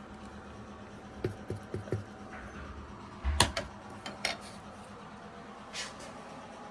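A few light knocks and clinks of hard objects being handled, with one sharper knock about three and a half seconds in, over a steady low hum.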